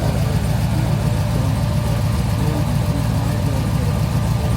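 Car engine idling steadily, a low rumble with a rapid even pulse.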